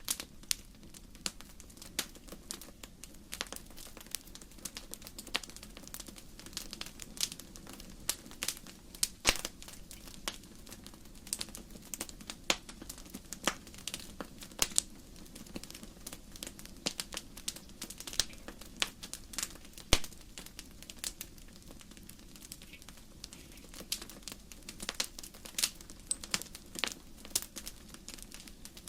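Wood fire crackling in a fireplace: irregular sharp snaps and pops, several a second and some much louder than others, over a steady low rushing sound.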